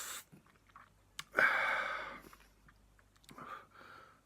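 A man eating very spicy instant noodles: a sharp click about a second in, then a loud breathy rush of air from his mouth, then softer chewing sounds near the end.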